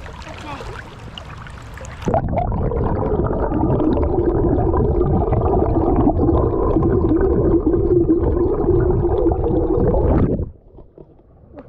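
River water heard through a camera held underwater: a loud, muffled rushing and rumbling of the current with no treble, starting suddenly about two seconds in and cutting off abruptly near the end as the camera comes out. Before it goes under, the river trickles faintly.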